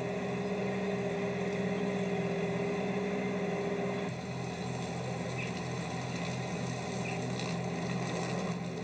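Small tractor's engine running steadily as it mows between rows of bushes, turning slightly quieter about four seconds in.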